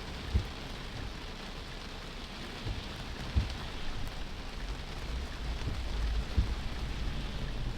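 Heavy rain falling on a moving car, heard from inside the cabin with low road rumble underneath, and a short knock about every three seconds.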